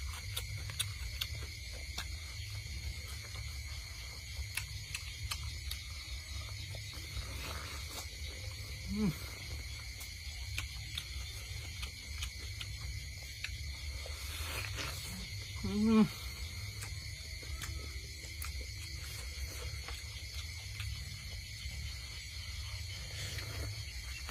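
Close-up eating sounds of a man chewing and biting meat off a roasted goat's head, small wet clicks and smacks scattered throughout over a steady high insect drone. Twice a short pitched vocal sound rises in pitch, about nine seconds in and again, louder, around sixteen seconds in.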